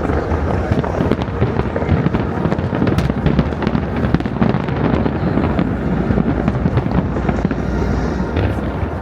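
A large fireworks display in a dense barrage: rapid, overlapping bangs and crackles over a continuous low rumble, easing slightly near the end.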